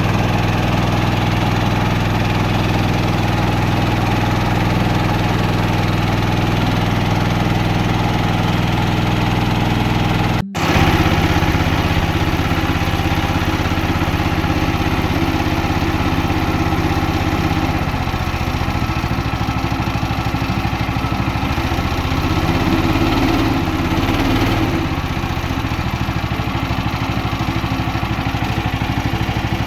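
Small boat engine running steadily. There is a brief dropout about ten seconds in, and the engine note changes after it.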